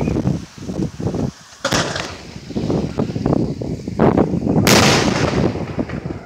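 Fireworks finale: a rapid, dense string of bangs and crackles, with two sharper, louder reports about two and five seconds in, the second the loudest.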